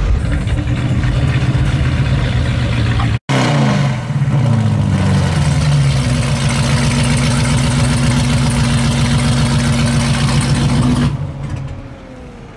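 Dodge Charger SRT's V8 revving, the revs falling back, then held high and steady for several seconds before dropping off sharply. It fades near the end as the car moves off. An engine is running before this.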